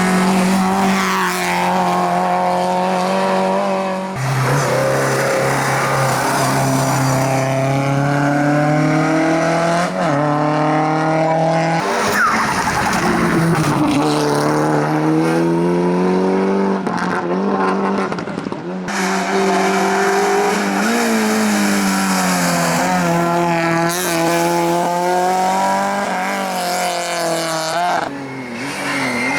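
Racing car engines at high revs, accelerating hard with the pitch climbing and then dropping at each gear change; the sound changes abruptly every few seconds as one car follows another.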